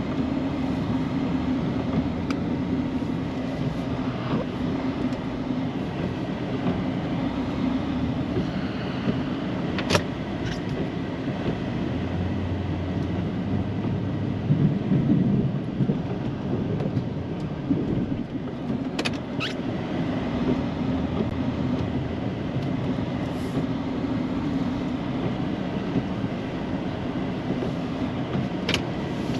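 Snow plow truck's engine running steadily while plowing, swelling louder for a few seconds about halfway through as it works harder, with a few sharp clicks or knocks scattered through.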